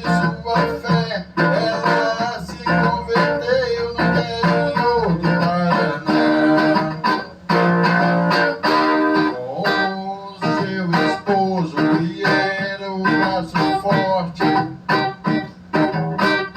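Instrumental break of a gospel song: a guitar picking a melodic lead line over a steady bass.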